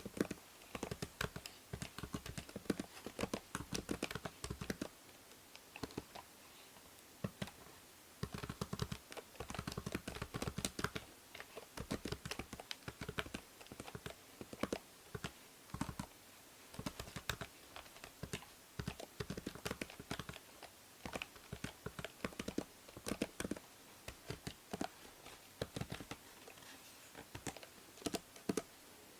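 Typing on a computer keyboard: irregular runs of key clicks with brief pauses, over a faint steady hiss from a binaural microphone.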